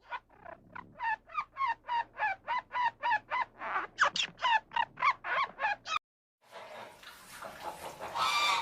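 A bird calling in a rapid series of short, pitched calls, about four a second, which stops abruptly about six seconds in. After a brief gap a different, noisier animal sound begins.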